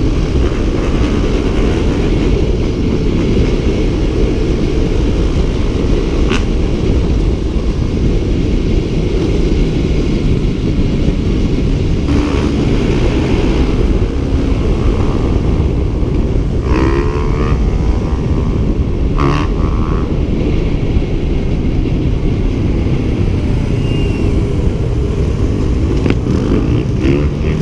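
Steady low rumble of wind buffeting the microphone while riding, with a motorcycle engine running underneath at an even pace.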